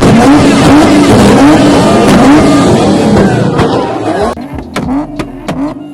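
Modified car engine held on a two-step launch limiter, its revs rising and falling over and over with crackling exhaust pops. About four seconds in the level drops sharply, leaving sharp pops about twice a second.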